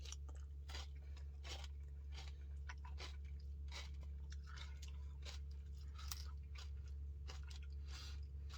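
Faint chewing with many irregular small crunches and mouth clicks while eating a peanut butter Puppy Chow Blizzard, over a steady low hum.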